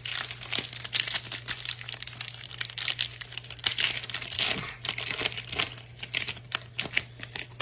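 Foil wrapper of a Panini Phoenix football card pack being torn open and crinkled by hand: a run of irregular crackles and rustles over a steady low electrical hum.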